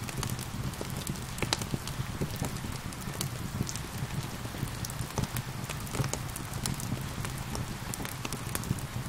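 Wood fire crackling, with sharp irregular pops and snaps over a steady hiss of gentle rain.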